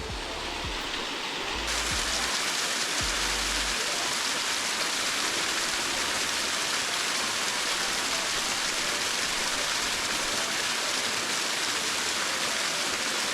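Waterfall: a steady rush of falling water, which gets louder and brighter about two seconds in.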